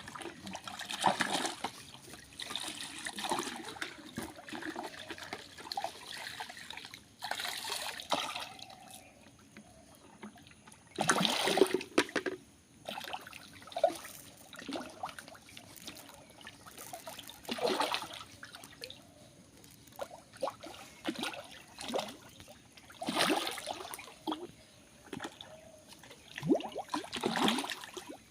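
Pond water sloshing and splashing in irregular bursts every few seconds, as fish stir the surface, with a faint trickle between the bursts.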